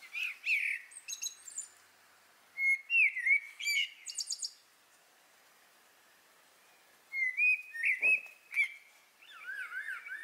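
Small songbirds singing in short bursts of high chirps and warbled phrases, with a quiet pause of about two seconds midway.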